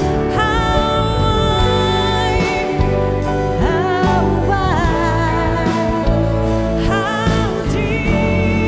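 Contemporary Christian worship band playing, with a singer holding long notes between lines of the song.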